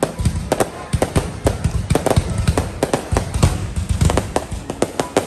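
Fireworks display going off: a rapid, irregular barrage of sharp bangs and crackles, several a second, over deep booms.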